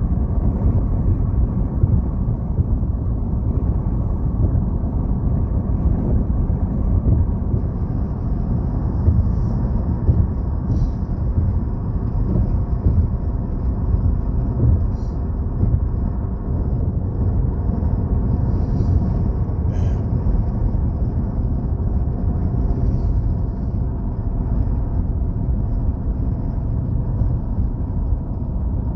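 Steady road and wind noise heard from inside a moving car: a low rumble of tyres on rough pavement.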